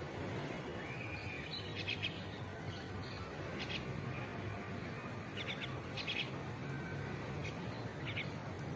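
Small birds chirping: short, high notes in quick clusters of three or four, repeated several times, over a steady low background hum.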